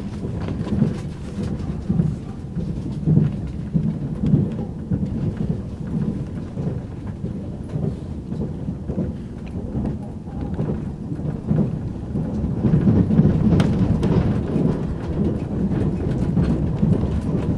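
Running noise of a JR Hokkaido passenger train heard from inside the carriage: a continuous low, rough rumble of wheels on rails that grows louder about two-thirds of the way through.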